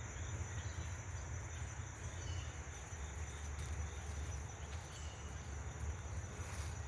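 Steady, high-pitched insect chorus in the early-morning outdoors, with a low rumble underneath and a few faint short chirps.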